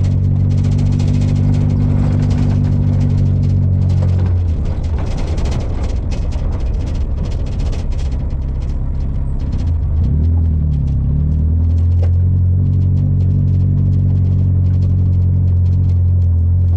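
Daihatsu Feroza's 1.6-litre four-cylinder engine droning steadily, heard from inside the cabin while driving on a dirt road, with light rattling over the first several seconds. The note weakens about four seconds in, its pitch dips and climbs back about ten seconds in, and then it runs steady again.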